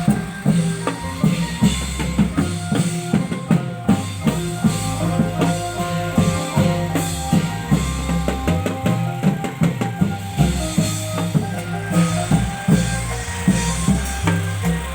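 Thai klong yao (long-drum) troupe music: drums beat a steady, fast rhythm under held bass and melody notes.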